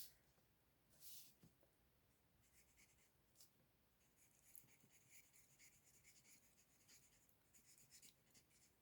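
Faint scratching of Stampin' Blends alcohol marker nibs colouring on cardstock.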